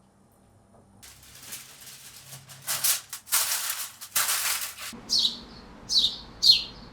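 A few swells of hissing, rustling noise, then from about five seconds in a bird chirping repeatedly with short chirps that fall in pitch.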